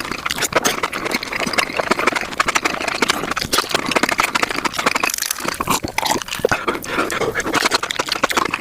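Close-miked eating sounds of mushrooms being chewed, sped up about five times, so the chewing and smacking run together into a fast, dense stream of wet clicks and crunches.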